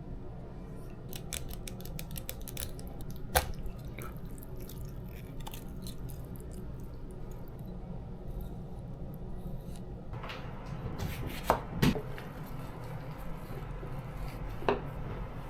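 Kitchen food preparation: many small clicks and taps of utensils, with a few louder knocks, over a steady low room hum.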